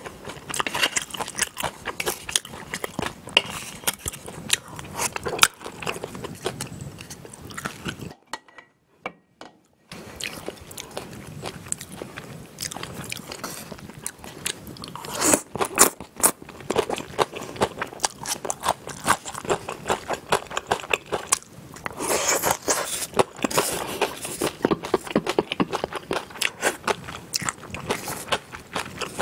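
Close-miked eating sounds: biting, chewing and crunching of chewy jjolmyeon noodles with raw vegetables, with dense crackly crunches that come in heavier clusters. About eight seconds in there is a break of about two seconds of near silence.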